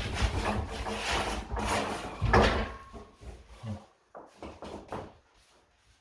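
Hand tool scraping against stone and grout in quick repeated strokes, easing off about halfway through into a few light knocks.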